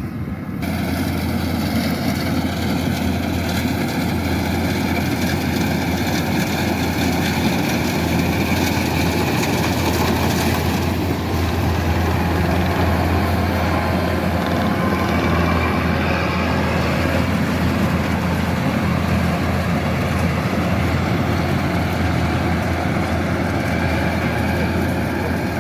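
Kubota DC-108X rice combine harvester's diesel engine running steadily at a constant speed, with a strong low hum.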